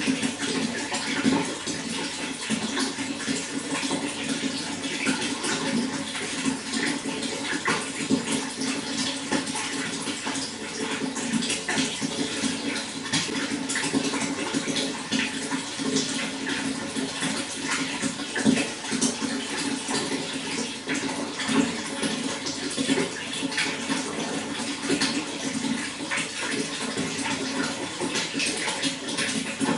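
Water running and splashing steadily, a continuous flowing rush with many small splashes throughout.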